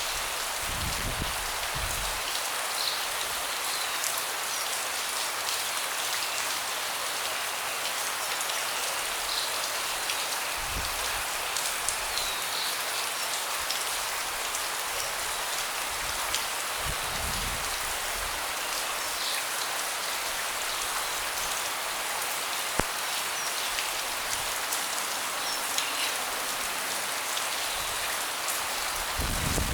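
Steady rain falling on a wooden deck, a constant hiss with individual drops ticking sharply here and there. A few brief low rumbles come and go.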